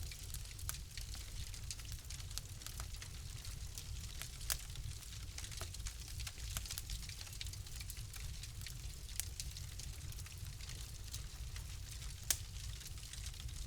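Wood fire crackling in a fireplace: a steady run of small pops and snaps over a low rumble, with two louder pops, one about four and a half seconds in and one near the end.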